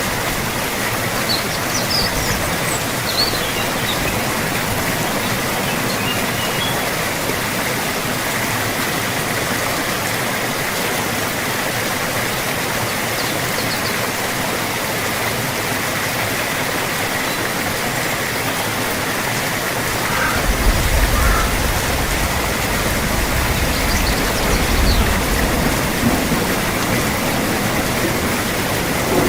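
Steady, heavy rainfall with a dense, even hiss, and a few faint high chirps now and then. About twenty seconds in, a deep low rumble joins the rain.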